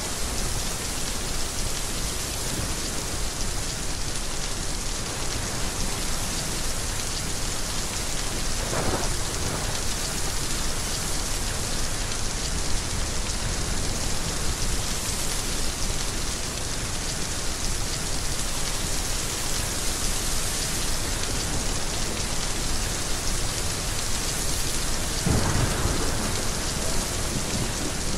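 Heavy rain falling steadily, with thunder heard twice: about nine seconds in, and louder near the end.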